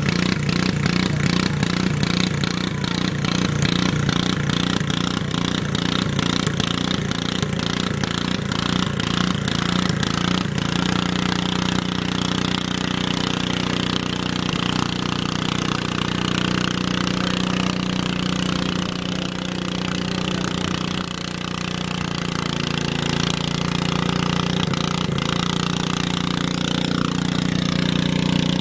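Garden tractor engine running, with an even pulsing beat for the first ten seconds or so, then smoothing into a steady drone.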